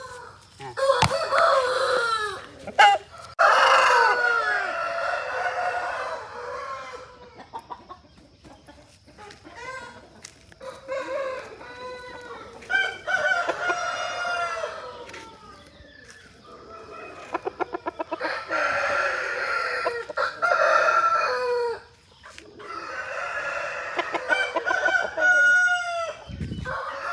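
Aseel chickens calling: roosters crowing several times, loudest about four seconds in and again late on, with clucking between the crows.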